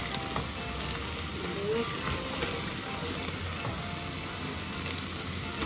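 Spice masala and fried onions sizzling in hot oil in a nonstick wok, with a spatula stirring through it and a few light taps against the pan.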